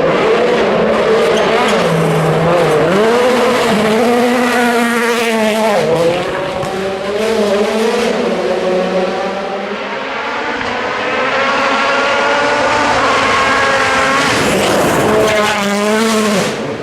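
A 2017 World Rally Car's turbocharged four-cylinder engine revving hard, its pitch climbing and dropping again and again with quick gear changes. It eases off briefly around six seconds and again near ten seconds before pulling hard once more.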